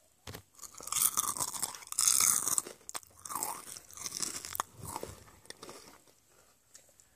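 Crunchy corn snack being bitten and chewed close to the microphone, loud crunches in the first couple of seconds giving way to softer chewing.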